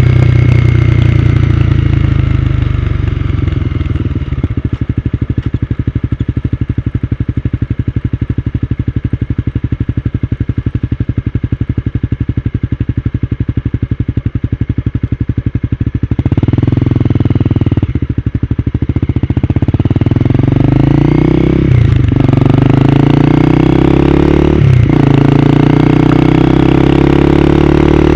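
Honda CB250R single-cylinder motorcycle engine on the move: a steady, evenly pulsing run at low revs, then accelerating in the second half, its pitch climbing and dropping back at each upshift.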